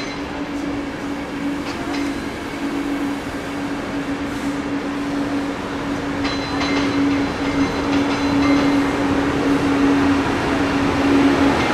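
ÖBB double-deck electric passenger train with its locomotive rolling slowly through the station: a steady electric hum over rail and wheel noise, growing louder near the end as the red locomotive comes by.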